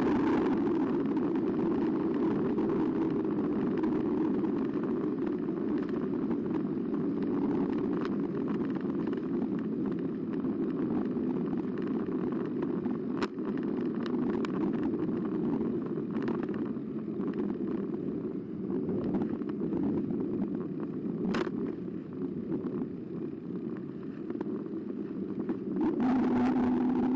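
Carbo X eBike being ridden, heard from a bike-mounted camera: a steady rush of wind and tyre noise with a low hum, broken by a few sharp clicks.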